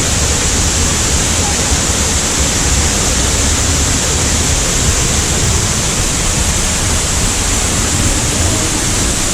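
Loud, steady rush of the Sgwd yr Eira waterfall heard from right beside the falling water, where the path passes underneath it.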